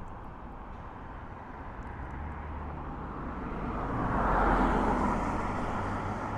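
A motor vehicle passing on a nearby road over steady traffic rumble, its noise swelling to a peak about four seconds in and then fading.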